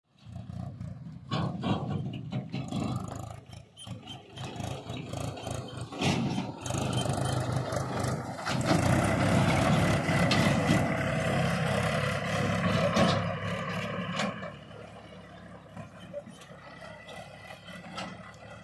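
Heavy diesel machinery working: an engine running and revving, loudest for several seconds midway before settling lower, with scattered metallic clanks and knocks.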